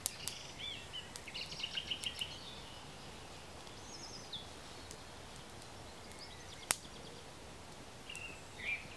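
Woodland birds singing in short chirps and quick trills over a steady outdoor hiss, with a few sharp clicks; the loudest click comes about two-thirds of the way through.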